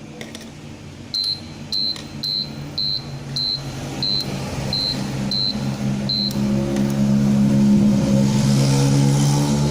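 An air-conditioner control board's buzzer gives about ten short, high beeps, roughly two a second: the board's microcontroller is running again now that its 5 V supply is back. From about six and a half seconds a steady low hum with a motor-like sound rises and grows louder.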